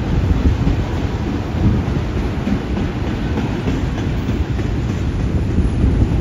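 Autorack freight cars of a passing freight train rolling by: a steady, loud rumble of steel wheels on rail.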